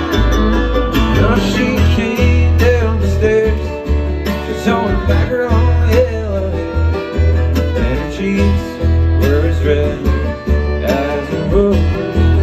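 A bluegrass band playing live in an instrumental passage: plucked strings, guitar and banjo, over a steady bass line.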